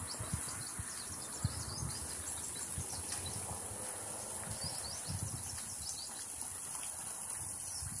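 Small birds chirping in the trees, many short high chirps scattered throughout, over soft irregular footsteps on a brick path and a steady high hiss.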